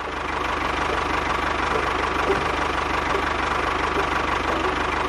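A small engine running steadily, with a fast, even low pulse of firing strokes.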